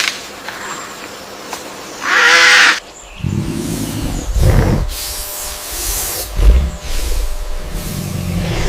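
A wild animal's calls: a loud, short pitched cry about two seconds in, followed by several low rumbling growls.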